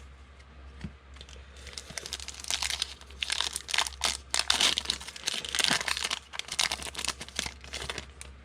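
Thin plastic wrapper of a trading-card pack being torn open and crinkled. The dense crackling builds about a second and a half in and is loudest in the middle.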